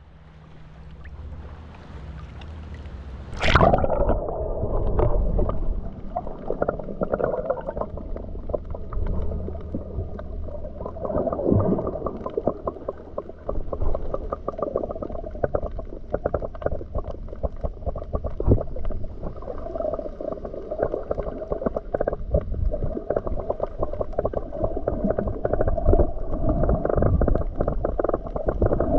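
A camera going into the sea, about three and a half seconds in, and then recording underwater. After the plunge the sound is muffled, with rumbling and gurgling water movement and many small crackling clicks.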